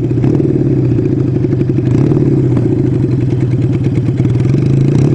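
Kawasaki 440 cafe racer's air-cooled parallel-twin engine idling steadily, with an even, fast pulse.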